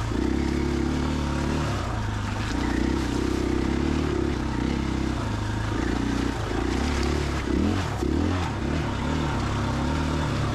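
KTM 500 EXC-F's single-cylinder four-stroke engine running as the dirt bike is ridden along a trail, revs rising and falling with the throttle, with quicker up-and-down swings in pitch about two-thirds of the way through.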